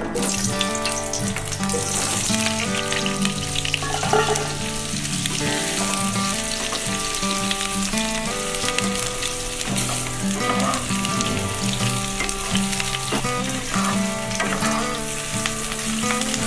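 Parboiled cauliflower florets sizzling in hot oil in a non-stick kadai, stirred with a wooden spatula. The sizzle starts suddenly as the florets go in. They are being fried only lightly, not browned. Background music plays underneath.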